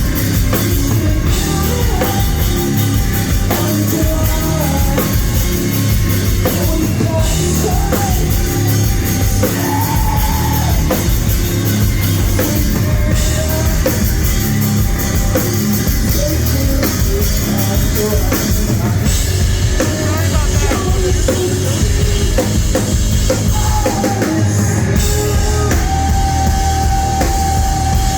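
Rock band playing live at full volume, with drum kit and guitars, loud and steady throughout.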